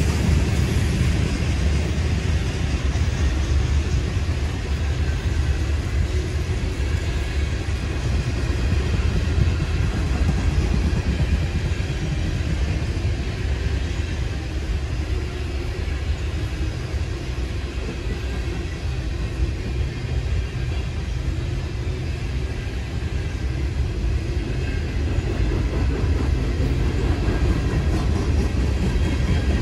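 Freight train passing with a steady low rumble.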